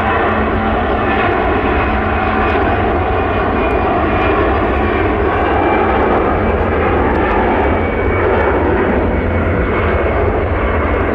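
Jet airliner engines running loud and steady: a broad rushing noise with thin, steady whining tones on top.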